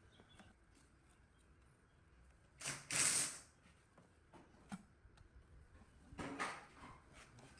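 Two short hissing whooshes, the first about two and a half seconds in and the louder, the second weaker about six seconds in, among light clicks and taps of parts being handled.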